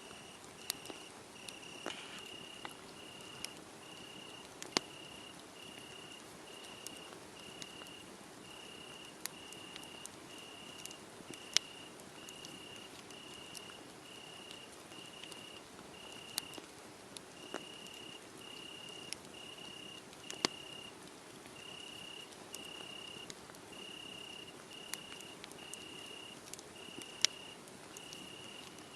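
Crickets chirping in a steady, even rhythm, one high chirp about every two-thirds of a second, over a wood fire crackling with scattered sharp pops.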